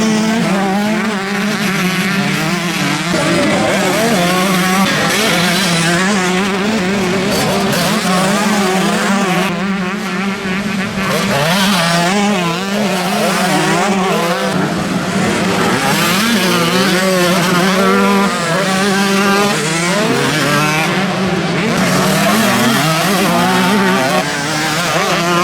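Several motocross bikes racing, their engines revving up and down at once, with overlapping pitches rising and falling as they accelerate and shift.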